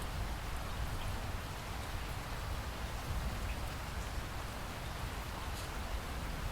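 Steady rain falling, an even hiss with a deep steady undertone and a few faint drop ticks.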